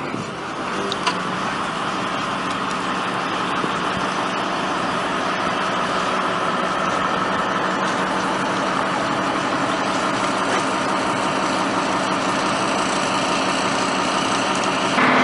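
Engines running steadily at a constant speed, with a low even hum and no change in pitch, while the pumps fill the AquaDam with water.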